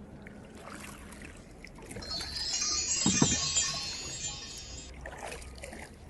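Kayak paddling with water dripping and lapping, and a short low thump about three seconds in. From about two to five seconds in, a shrill high-pitched sound made of many thin tones is the loudest thing.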